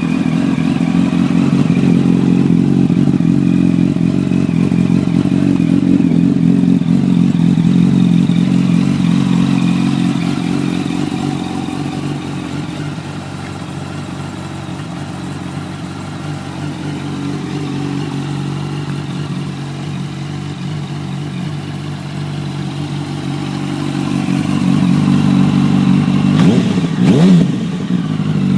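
2008 Yamaha YZF-R1's inline-four engine idling through an FMF Apex carbon-fibre slip-on exhaust, just after starting. The idle eases down about ten seconds in, then builds again, with a short rev near the end.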